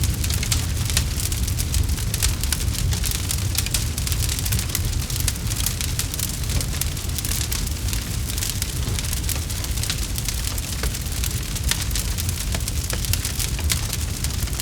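Campfire crackling: a dense, steady run of small sharp pops and snaps over a low rumble.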